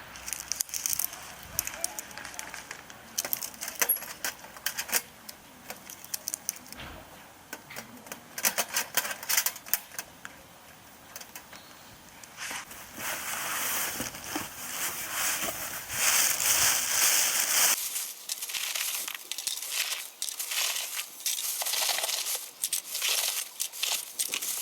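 Charcoal crackling and clinking in a chimney charcoal starter: many sharp clicks and pops, with a stretch of hissing noise about halfway through.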